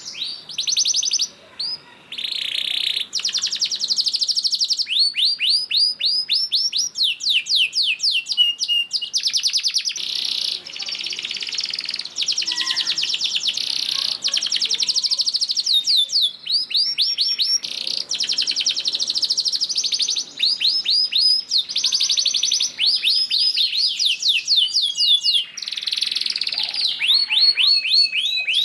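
Domestic canary singing a long, near-continuous song of rolling trills, each trill a fast run of repeated falling notes, with only brief breaks between phrases.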